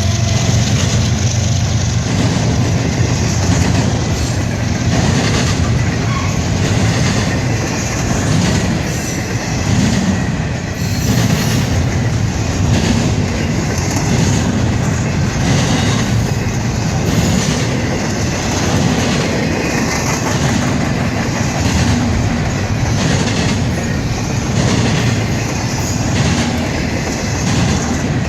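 CSX freight train rolling past with a continuous low rumble, its wheels clicking over the rail joints about once a second.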